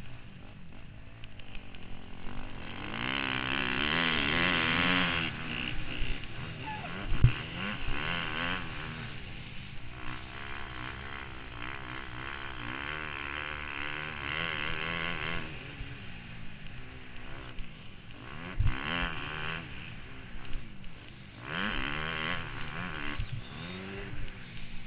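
Motocross bike engine revving up and falling back again and again as the rider accelerates and backs off around the track. A rushing noise swells and fades with it, and there are two sharp thumps, about seven seconds in and again near nineteen seconds.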